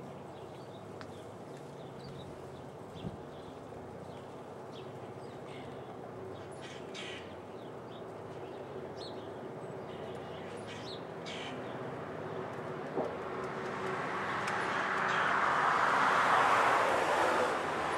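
Low steady hum of a diesel freight train, with birds chirping over it. A broad noise swells to a peak late on and begins to fade, like the train or a vehicle drawing near and passing.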